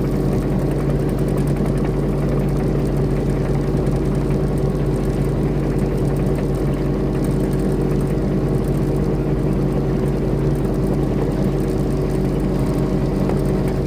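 Diesel engine of a compact construction machine running steadily at a constant speed, with no revving or load changes.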